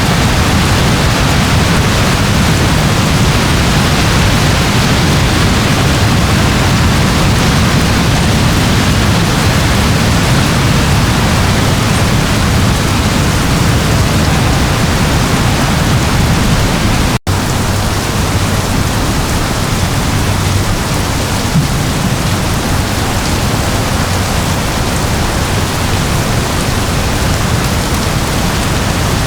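Steady, dense rain falling, an even hiss with a low rumble beneath it, broken once by a momentary dropout a little past halfway through.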